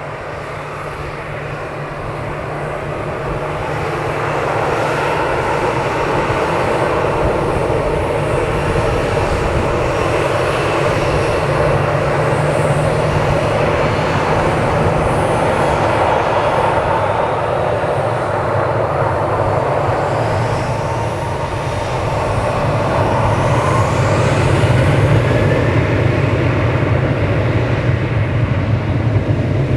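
Boeing 737-800 jet engines at takeoff thrust during the takeoff roll and climb-out: a steady, loud engine noise that builds over the first few seconds and grows louder again about three-quarters of the way through.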